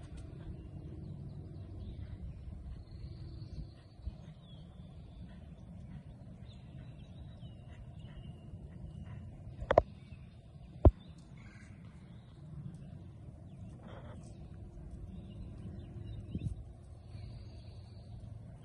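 Songbirds chirping in short calls and glides over a low steady rumble, with two sharp knocks about a second apart midway.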